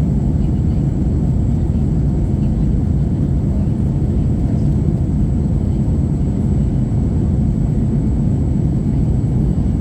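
Steady cabin noise inside an Airbus A321-231: a low, even rumble from its IAE V2500 turbofan engines and the airflow, with a faint high whine.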